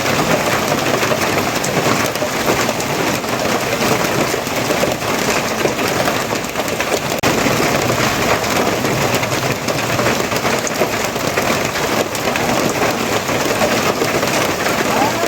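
Steady rain falling, a dense even hiss of many drops with a fine crackle, unchanging throughout.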